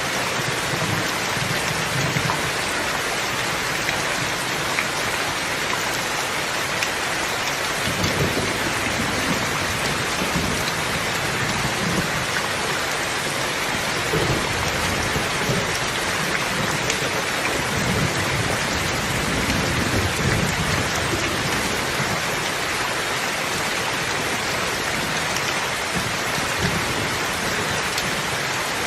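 Steady rainfall pattering, with low rumbles of thunder swelling up every few seconds.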